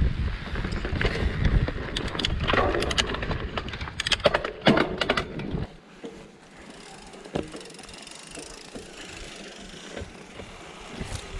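Mountain bike riding over a rocky trail: a low rumble of wind and tyres, with a run of sharp clatters and clicks between about two and five seconds in. About halfway through the rumble drops away, leaving it quieter with a few light ticks.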